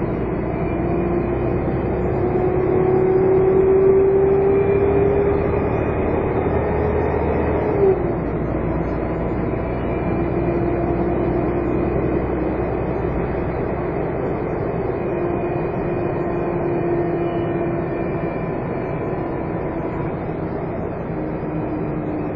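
Volvo Olympian double-deck bus with Alexander RL body under way, its engine running with the steady whine known as the "hoover" sound. The whine holds for several seconds at a time, falls sharply in pitch about eight seconds in, and comes back again at a slightly different pitch.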